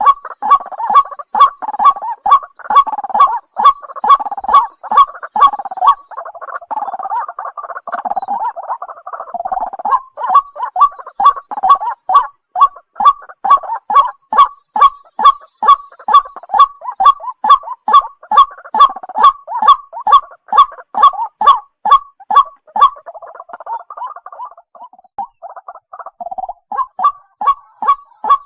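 White-breasted waterhen calling: a steady run of short, repeated notes, about two or three a second, with a rougher jumble of chattering notes mixed in for long stretches.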